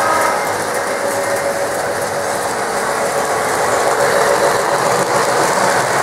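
Lionel New York Central O-gauge diesel model train running around its track loop: a steady mechanical rattle of its motor and wheels on the rails, with a faint steady hum.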